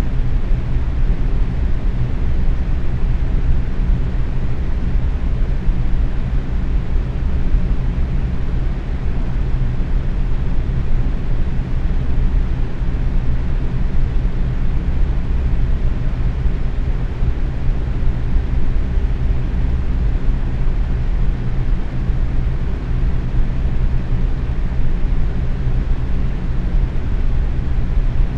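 Box fan running steadily at medium speed: a constant whooshing rush of air, mostly low, with a faint steady motor hum.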